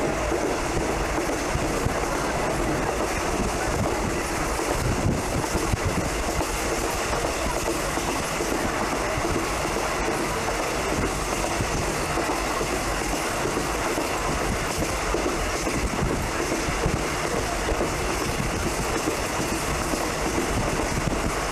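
Train running steadily, with continuous wheel-on-rail noise at an even level.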